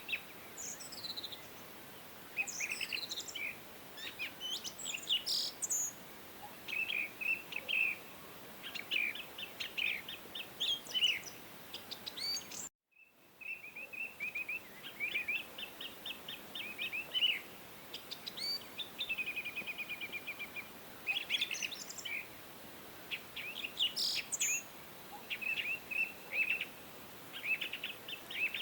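Songbirds chirping and singing in many short, quick phrases over a steady background hiss, with a brief cut to silence about thirteen seconds in.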